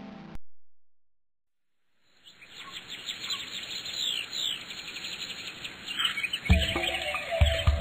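Birds chirping, many short overlapping calls sweeping up and down, fading in after a brief silence. Low thumps join in near the end.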